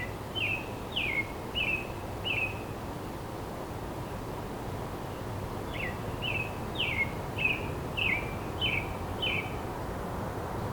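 A songbird singing two runs of short, repeated down-slurred notes, about two a second: five at the start and seven more beginning about six seconds in. Underneath is a steady outdoor rush with a low hum.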